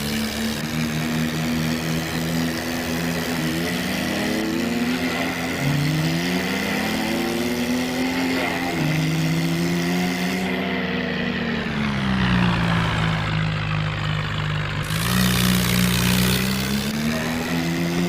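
Tractor engine sound running and revving, its pitch rising and falling again and again, with two engine tones sometimes overlapping.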